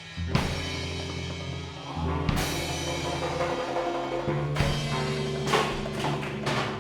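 Live band improvising: drum kit with cymbal crashes every second or two over low held notes that change pitch a few times.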